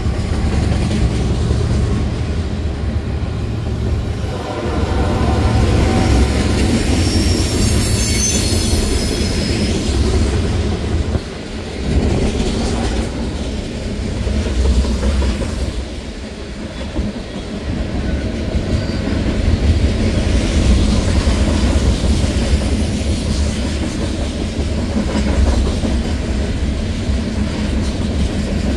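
Freight train of ethanol tank cars rolling past close by: a steady rumble of steel wheels on rail with clickety-clack over the rail joints. A high wheel squeal comes in briefly about eight seconds in.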